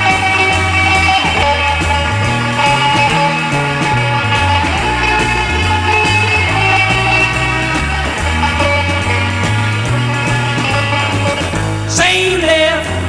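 Instrumental break in a 1960s rock and roll song by a full band, with a bass line stepping from note to note under sustained instrumental lines. The lead vocal comes back in about a second before the end.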